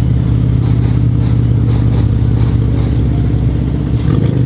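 A vehicle engine idling steadily, a low even hum with a fine regular pulse and no revving.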